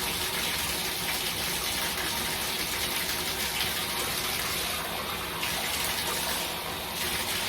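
Bathtub faucet running steadily, water pouring into the tub as it fills to check that the freshly unclogged drain keeps up.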